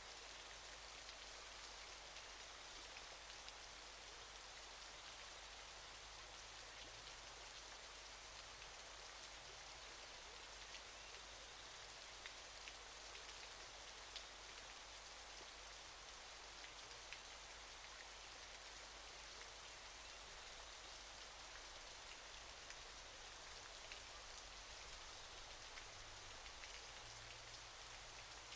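Faint, steady rushing-water noise of a waterfall, an even hiss with an occasional light tick like falling drops.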